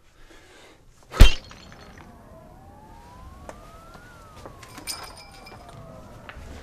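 A sudden loud bang about a second in, then a police siren wailing, its pitch slowly rising and falling.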